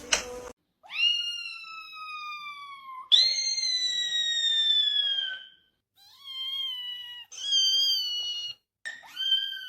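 A cat meowing: five long, drawn-out meows one after another, each falling in pitch, after a sharp click at the very start.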